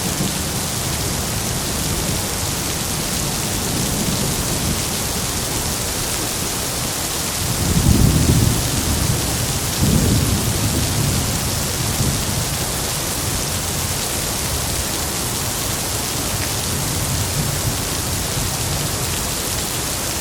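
Heavy rain falling with a steady hiss. Thunder rumbles in twice, a little under halfway through and again about two seconds later.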